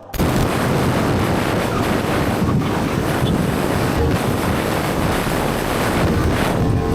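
Loud, steady wind rushing over the microphone, a dense hiss with no clear engine note, starting abruptly at the cut.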